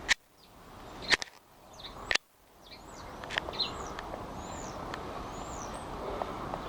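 Small garden birds calling, a handful of short, high, arching chirps in the second half, over a steady outdoor background. Three sharp clicks come about a second apart near the start.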